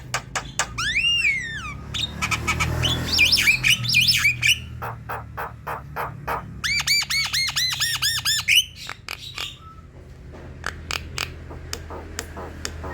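Javan myna calling: a stream of sharp clicks and squawks, a rising-and-falling whistle about a second in, and a fast run of repeated arched whistled notes just after the middle.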